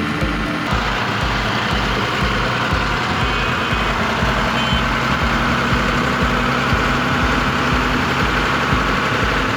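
Tractor engine chugging steadily at idle, about three to four beats a second.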